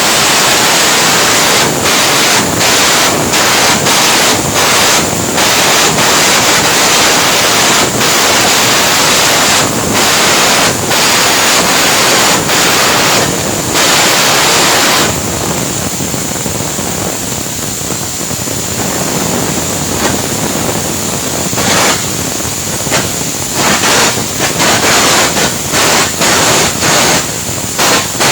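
Stick-welding (arc welding) arc crackling and hissing steadily, with short breaks; near the end it cuts in and out about once a second.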